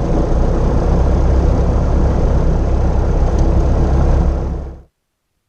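Car running with a steady low rumble, cut off abruptly near the end.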